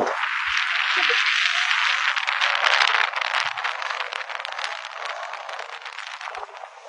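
Heavy storm rain pelting down as a dense hiss full of tiny impact clicks, easing off gradually toward the end.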